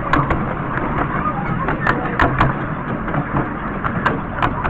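Miniature railway train running, a steady rumble with sharp clicks and knocks every so often.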